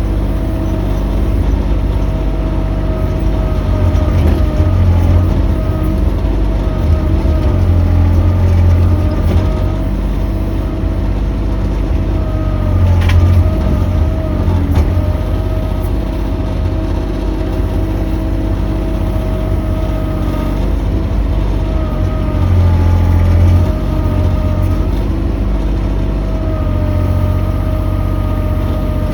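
Mini excavator's engine running steadily with a constant whine, growing louder several times as the machine works.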